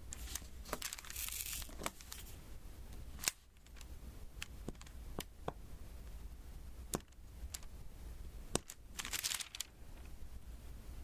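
Diamond painting handled close to the microphone: scattered light clicks and taps as drills are pressed onto the sticky canvas, with two brief rustling, peeling noises, about a second in and again near the end.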